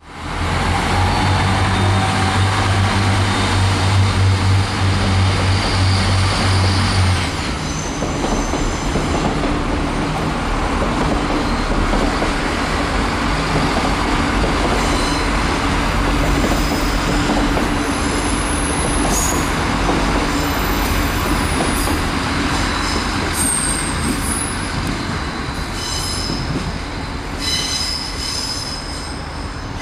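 Irish Rail diesel multiple units running through pointwork. A steady low hum for the first seven seconds gives way to the rumble of a train on the track, with repeated high-pitched wheel squeals from about halfway on as a 29000 Class railcar comes round the curves.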